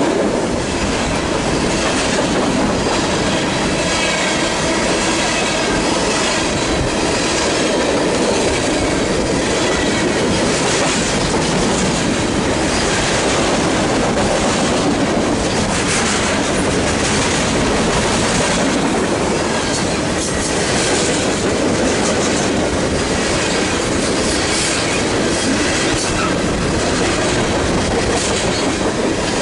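BNSF freight train rolling steadily past, its cars' wheels clicking over the rail joints, with some high wheel squeal in the first few seconds.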